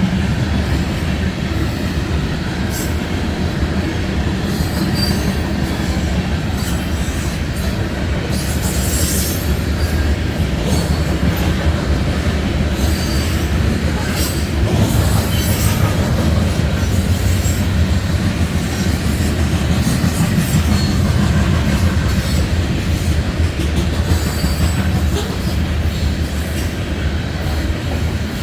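Freight cars of a Norfolk Southern train rolling past: a steady loud rumble of steel wheels on rail, with scattered clicks as wheels cross rail joints and occasional wheel squeal.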